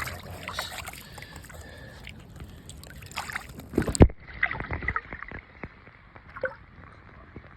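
Creek water splashing and sloshing, with knocks and rustles of handling; a loud thump about four seconds in, after which the sound is duller.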